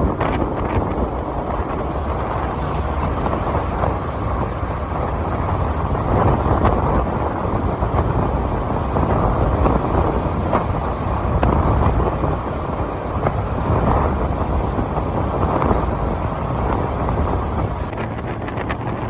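Wind rushing over the microphone with the steady rumble of a motorcycle and road noise while riding.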